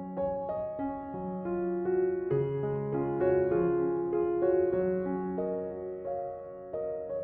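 Slow relaxation piano music: held notes and chords overlapping and ringing on into one another.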